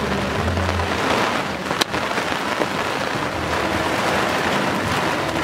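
Heavy rain and wind of a passing squall, a steady dense hiss of rain, with one sharp crack about two seconds in.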